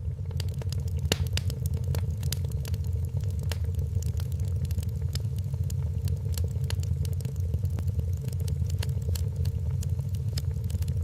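Wood fire crackling, with frequent irregular sharp pops over a steady low rumble of the burning fire.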